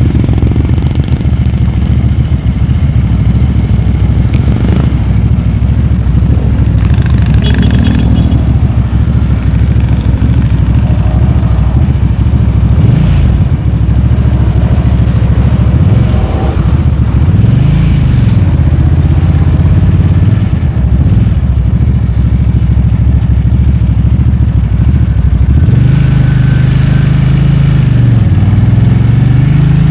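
Motorcycle engine running under way, its revs rising and falling several times, most clearly from about halfway through and again near the end, over a steady low rumble.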